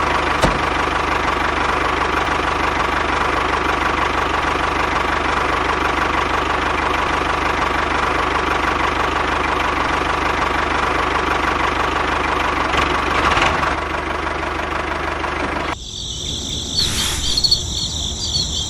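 Small engine running steadily at an even speed, cutting off abruptly about three-quarters of the way through. Crickets then chirp in a steady high trill.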